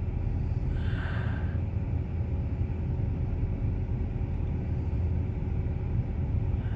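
Car idling, heard from inside the cabin as a steady low rumble.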